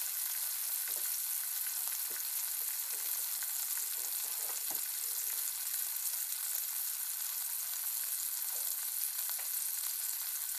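Garlic, onion and tomato sautéing in hot oil in a wok: a steady sizzle with small scattered crackles.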